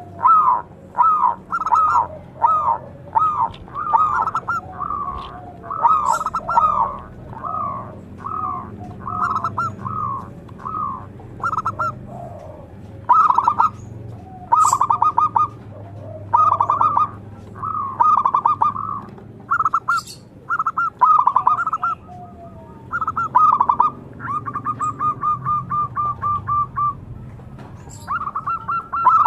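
Zebra dove (perkutut) cooing loudly in a long run of rapid, stuttering phrases, one after another with only short gaps. A little before the end comes a longer, evenly spaced series of notes lasting about two seconds.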